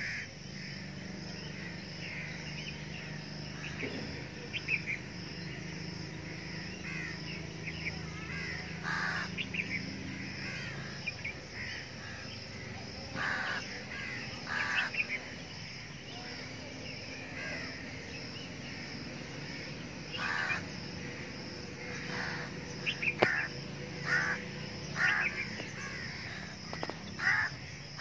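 Birds calling outdoors: harsh, caw-like calls repeated at irregular intervals, more often in the second half, over lighter chirping and a steady background hiss.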